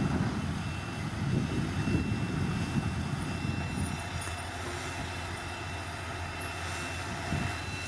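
Bulldozer's diesel engine running steadily with a thin high whine above it; the rumble eases slightly about halfway through.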